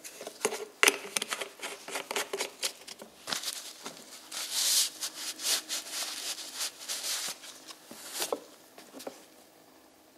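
Irregular clicks, taps and light knocks of small objects being handled, with a short rustling hiss about four and a half seconds in.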